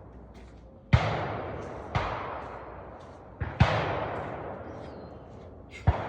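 Five rifle or pistol shots, each trailing off in a long echo, with two fired in quick succession in the middle.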